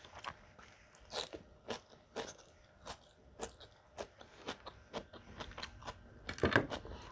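Close-up chewing and crunching of crisp food, most likely pako (fiddlehead fern) salad, with short crisp crunches about twice a second and a louder burst of crunching near the end.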